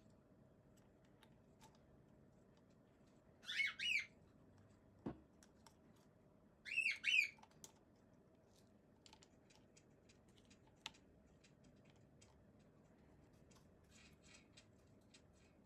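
Two brief bursts of chirping bird calls, each a few quick falling notes, about three and a half seconds in and about seven seconds in. Light clicks and taps sound between them, with one sharper click about five seconds in.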